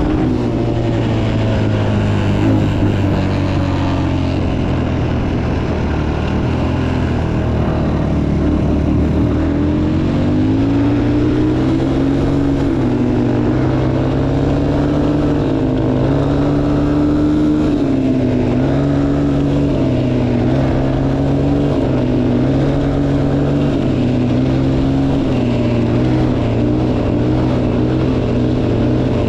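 Motocross bike engine running under varying throttle, its pitch climbing about a third of the way in and then rising and falling.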